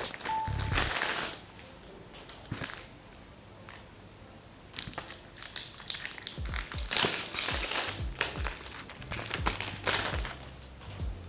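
Plastic packaging crinkling and rustling in irregular bursts as it is handled, over background music.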